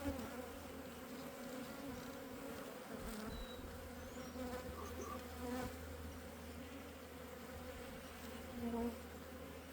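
Honey bees buzzing steadily around an open hive, a low humming drone with a brief louder swell near the end.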